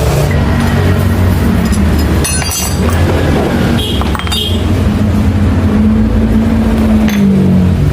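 An engine running steadily, with a few metallic clinks a couple of seconds in and again about four seconds in.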